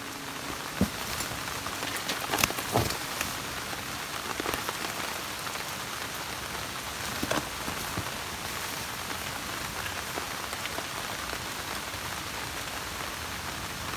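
Steady rain falling, with a few heavier drops striking close by, mostly in the first half.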